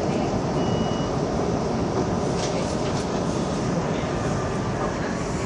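A Metrovalencia train running along the line, heard from inside the carriage: a steady rumble and hiss of wheels and motors. A short high tone sounds briefly under a second in.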